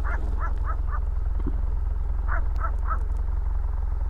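A dog barking in quick runs of short barks, four in the first second and three more about two and a half seconds in, over a steady low wind rumble on the microphone.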